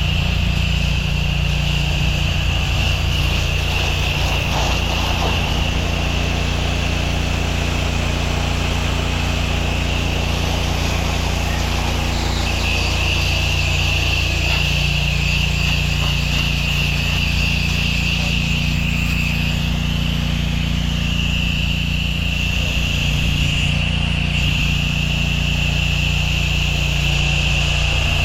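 Gas-engine pressure washer running steadily, its low engine hum joined by a high, narrow whine that drops out briefly twice.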